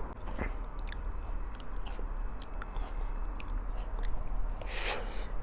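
Close-miked eating sounds: a person chewing food, with many small wet clicks of the mouth and a brief louder rustle near the end.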